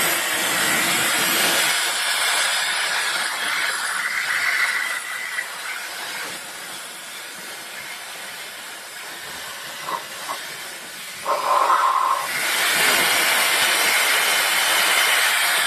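K&F Concept BS400 electric air duster blowing: a steady hiss of rushing air with a high whine from its fast motor. It eases off in the middle and rises again about twelve seconds in.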